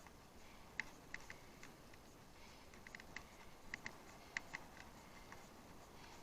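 Faint, irregular clicking from a bicycle in motion: short, sharp ticks, sometimes in pairs, coming a few times a second over a low hiss.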